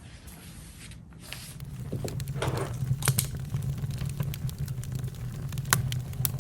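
Campfire burning, with sharp irregular crackles and pops over a low steady rumble that swells about a second and a half in.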